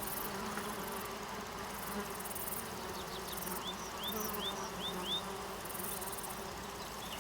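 Insects buzzing and trilling, the high trills coming in bursts that start and stop every second or so. A little past halfway a bird gives a quick series of five short rising chirps.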